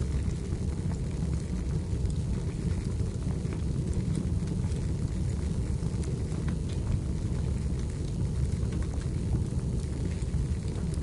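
Fireplace fire burning with a steady low rumble and scattered small crackles and pops.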